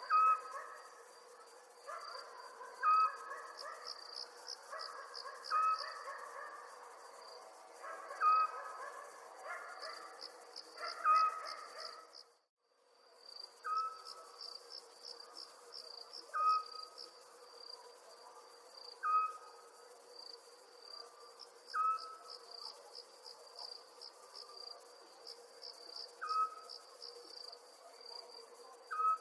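Night ambience of crickets trilling and chirping steadily, with a short whistled call repeating about every two and a half seconds. Everything cuts out for about half a second near the middle, then resumes.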